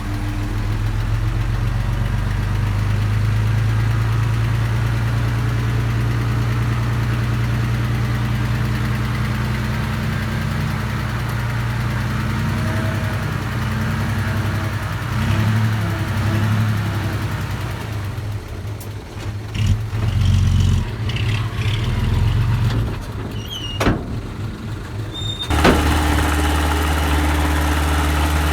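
Engine of small earthmoving machinery running steadily, with a few sharp knocks in the second half and an abrupt change to a deeper engine note near the end.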